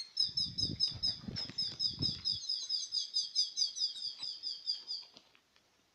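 A bird calling: a steady run of quick, high chirps, about five a second, stopping about five seconds in. A low rumble of handling or wind on the phone microphone runs under the first two seconds.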